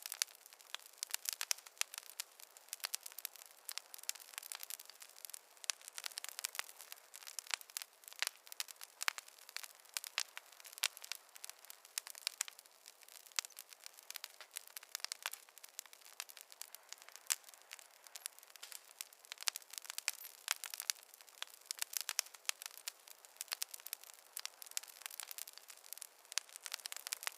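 Wood fire crackling in a fireplace: a steady stream of small, sharp, irregular pops and snaps, several a second, over a faint hiss.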